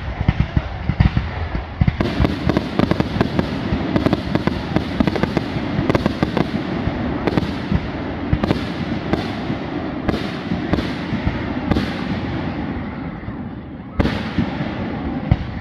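Aerial fireworks shells bursting in quick succession, a sharp bang every half second to a second over continuous rapid popping, with another loud bang near the end.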